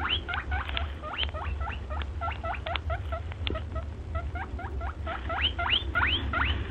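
A small animal giving a fast, continuous series of short, high, rising squeaks, several a second, over a steady low hum.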